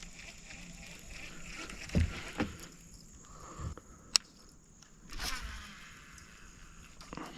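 Knocks and thumps from gear being handled in a kayak: two low thumps about two seconds in, a sharp click a little after four seconds, and a brief rush of noise around five seconds.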